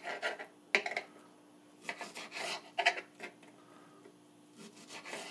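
Irregular rubbing and scraping as raw chicken cutlets are unwrapped and cut on a cutting board, in five or six short bursts with quiet gaps between.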